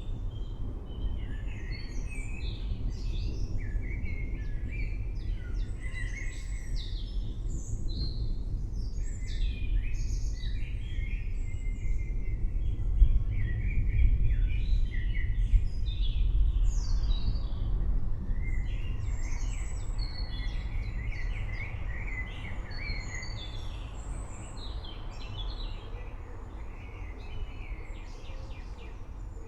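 A chorus of songbirds chirping and trilling continuously over a steady low rumble of distant thunder, which swells about halfway through.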